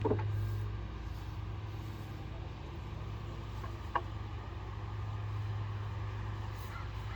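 A knock right at the start and a light tap about four seconds in, from work on a wooden fence, over a steady low hum.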